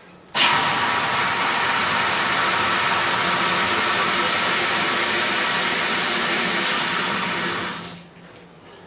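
Aerosol can of expanding spray foam discharging through its nozzle: one steady loud hiss lasting about seven seconds, which starts just after the beginning and fades away near the end. The can is full and under good pressure.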